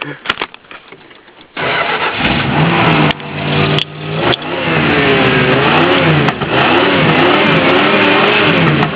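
Dodge Ram 350 van's engine through an aftermarket MagnaFlow cat-back exhaust, starting up about a second and a half in after a few light clicks, then running and being revved up and down repeatedly through the second half.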